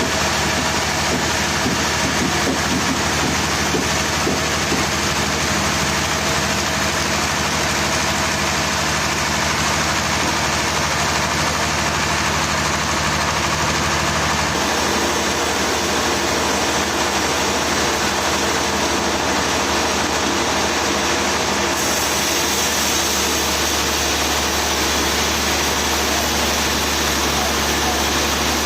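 Sawmill machinery running steadily under a heavy engine hum, with no break in the sound. Its character shifts about fifteen seconds in and again a little past twenty seconds.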